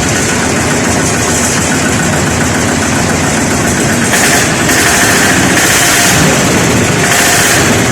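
Pancar single-cylinder diesel engine of a patpat two-wheel tractor, running steadily and loudly.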